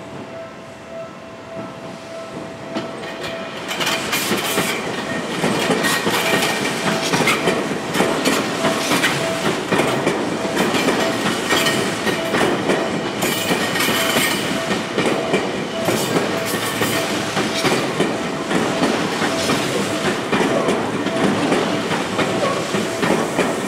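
A Tokyu 5050-series electric train runs past at a level crossing, growing loud about four seconds in, its wheels clattering rhythmically over the rail joints. Beneath it, from the start, a level-crossing warning bell rings with a steady, rapid pulse.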